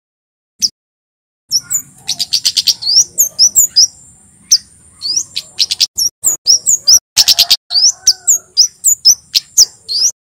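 Male kemade jawa, a flowerpecker, calling hard: after a single note, a fast run of sharp, high chirps that each flick upward, with a thin steady high tone running under parts of it.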